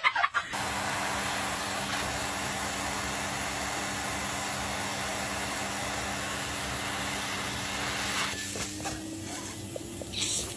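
Steady rushing noise with a faint low hum, easing for a couple of seconds near the end, with a few faint clicks.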